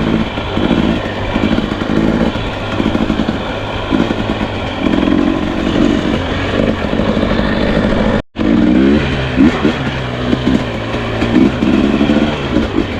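Two-stroke enduro dirt bike engine being ridden slowly on a trail, the throttle blipped on and off in short uneven bursts. The sound drops out completely for a moment about eight seconds in.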